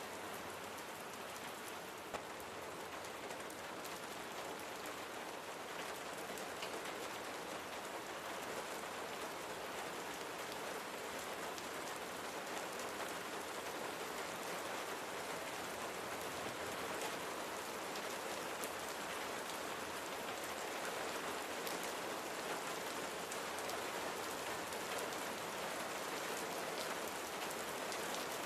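Steady rain falling, a dense even patter of drops on a surface that grows slightly louder through the stretch.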